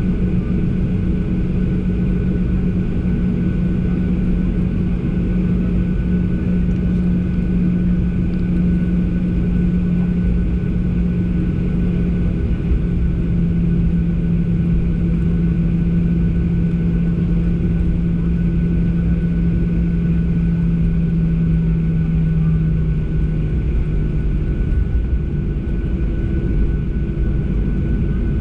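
Steady cabin noise inside a Boeing 737 on the ground before takeoff: its jet engines run at low power with a constant rumble and a droning hum that drops slightly in pitch about halfway through.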